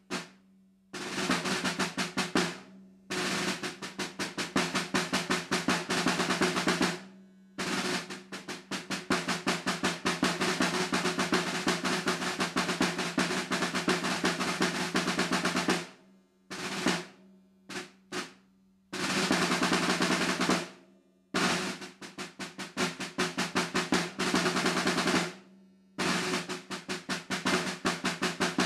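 Unaccompanied snare drum played under tempo: long sustained rolls and passages of rapid rudimental strokes, broken by several brief rests.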